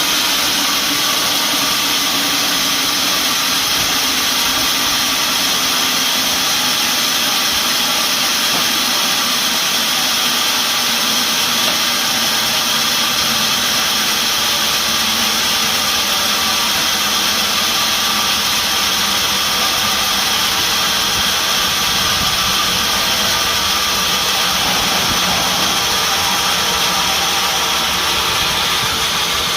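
Sawmill machinery running steadily: a loud, even mechanical noise with faint steady whining tones and no change in pace.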